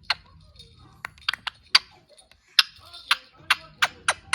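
An irregular run of about eleven sharp clicks, with a short rasping sound about two and a half seconds in.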